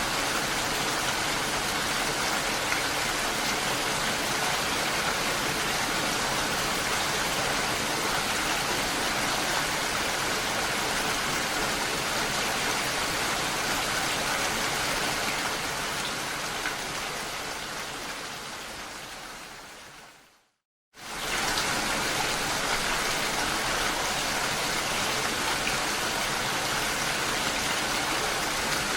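Steady rain falling, an even hiss of drops. About two-thirds through it fades away over a few seconds to a brief silence, then comes back in suddenly at full strength, like a loop or edit point in the recording.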